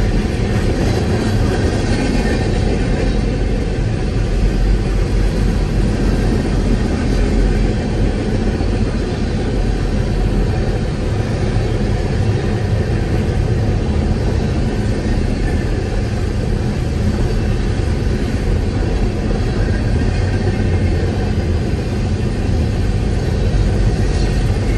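Empty Herzog ballast hopper cars rolling past, a steady rumble of steel wheels on rail that holds the same level throughout.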